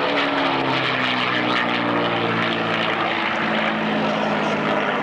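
CAC-built Mustang's Merlin V12 piston engine droning as the aircraft flies past, its pitch dropping over the first couple of seconds and then holding steady.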